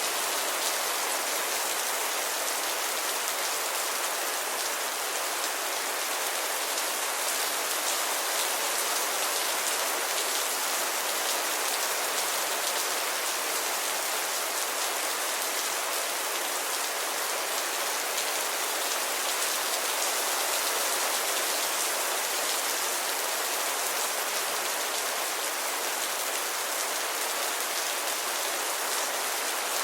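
Steady rainfall: a dense, even hiss of raindrops with no thunder or change in strength.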